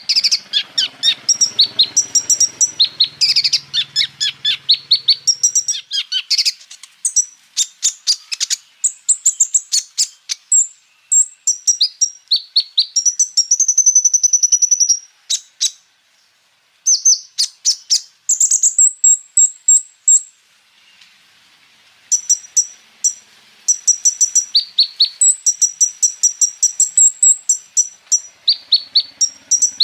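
Kolibri ninja sunbird singing a fast, high-pitched song of rapid chirps and rolling trills. There are two short breaks about halfway through.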